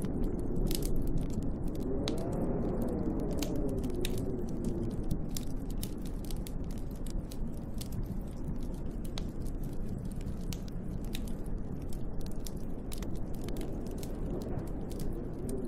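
Wood fire crackling and popping with many sharp snaps, over a steady low rumble of storm wind. A gust howls, its pitch rising and falling, from about two seconds in, and again near the end.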